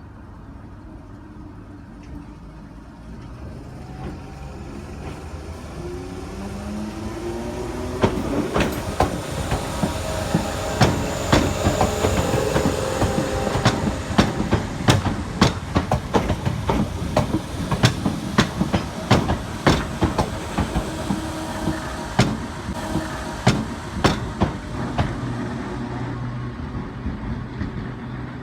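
Passenger train passing close by, its wheels clacking sharply over rail joints and points in a long irregular series. A rising whine comes as it approaches, and it eases off near the end.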